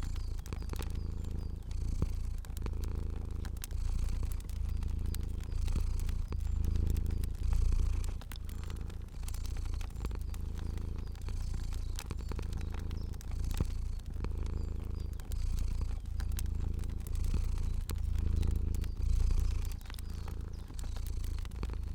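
A domestic cat purring steadily, the low rumble swelling and dipping in pulses about a second apart with each breath, under the scattered light crackle of a fire.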